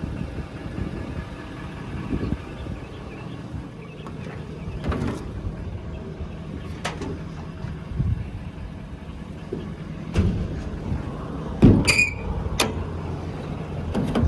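Ford F550's 6.7-litre Power Stroke diesel idling steadily, with several sharp metal clanks and knocks over it. The loudest clank comes near the end and rings briefly.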